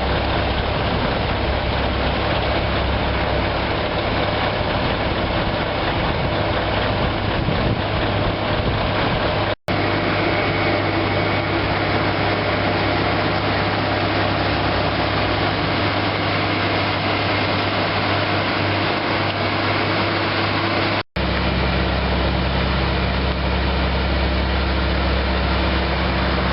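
Scania T144 truck's V8 diesel engine running steadily. Twice the sound breaks off abruptly and resumes at a slightly different pitch, where the footage is cut.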